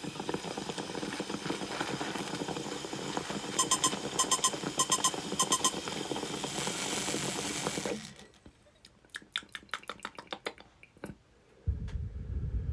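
Water bubbling and percolating in a glass dab rig during a long inhale, with a series of short electronic beeps midway and a hiss of rushing air at the end of the draw. After it come a run of sharp clicks and, near the end, a low blowing gust.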